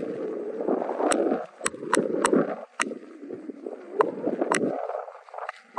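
Horse running over open ground, its hooves knocking sharply at irregular intervals over a steady rumble of wind and motion on the microphone.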